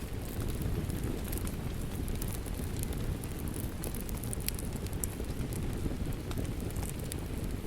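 Wood fire crackling, with irregular sharp pops and snaps over a steady low rumble of rain.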